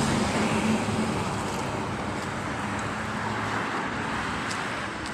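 Road traffic noise: a steady wash of passing vehicles, with a low engine hum that fades away in the first second.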